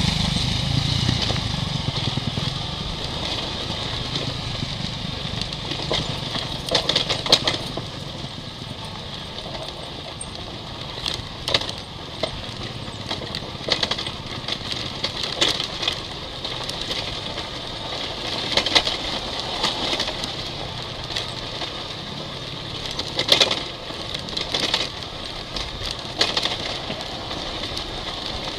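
Dirt bike engine running at low, even revs, with irregular sharp knocks and clatter through it.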